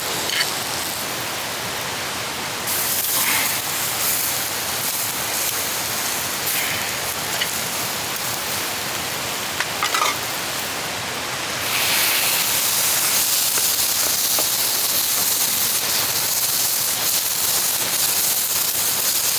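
Food sizzling in a frying pan over a burning Swedish torch, with a few faint scrapes of a utensil. The sizzle grows louder about three seconds in and louder still about twelve seconds in.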